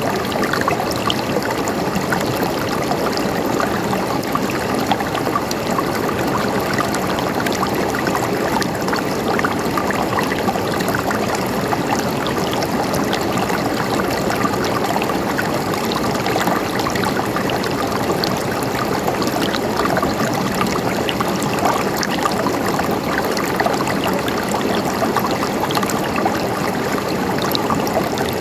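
Mountain stream running and gurgling steadily over rocks.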